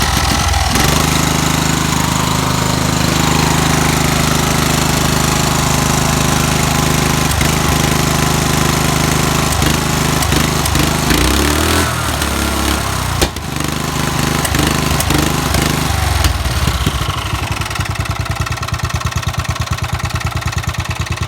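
Murray riding lawn mower's small gasoline engine running just after a cold start on choke, a steady fast drone. About three-quarters of the way through it drops to a slower idle with each firing beat distinct.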